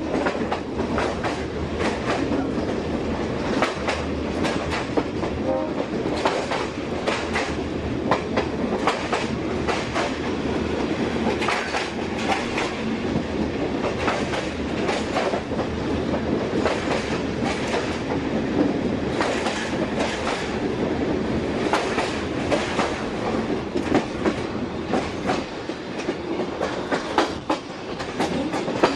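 Passenger train running along the line, heard from a coach window: a steady running noise from the carriage, with frequent sharp clicks as the wheels pass over rail joints.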